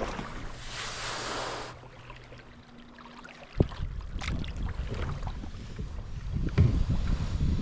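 Kayak coming ashore at a riverbank: a hiss for the first couple of seconds, one sharp knock about three and a half seconds in, then wind buffeting the microphone.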